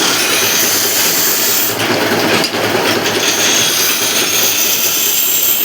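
Machine in a metalworking shop running steadily, making a continuous harsh noise over a low hum.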